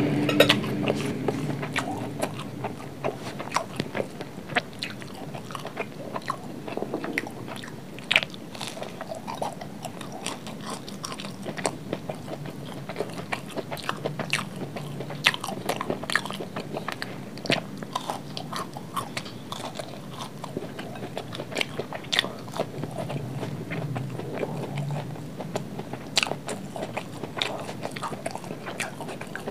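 Close-miked eating sounds: chewing fried rice, with many short crisp crunches from biting into a breaded fried patty.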